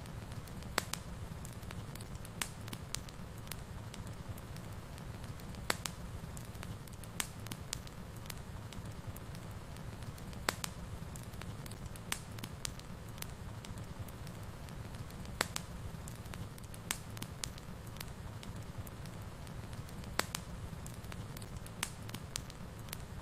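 Wood fire burning in a fireplace: a steady low rumble of the flames with scattered sharp crackles and pops from the burning logs, about one every second or so.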